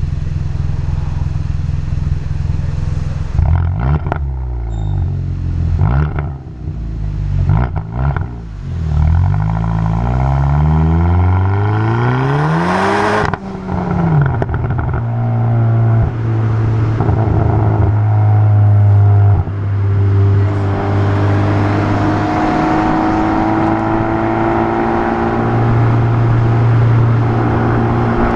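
Muffler-deleted exhaust of a 2020 Hyundai N Line car, heard from outside: it idles, then is revved several times, rising and falling, with the highest rev about 13 seconds in. After that it runs with a steady drone whose pitch slowly climbs.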